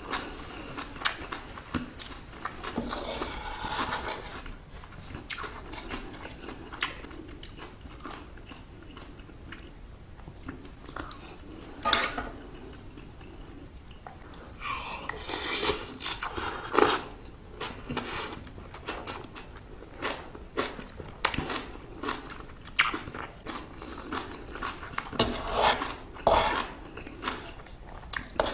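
Close-miked eating: chewing and biting mouthfuls of stir-fried octopus fried rice, with many short sharp clicks scattered through.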